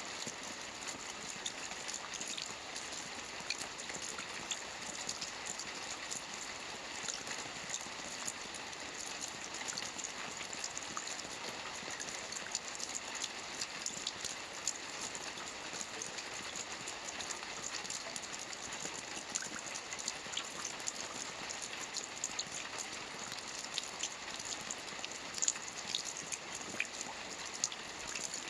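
Steady rain falling on a lake, a dense even patter with many small drop ticks scattered through it.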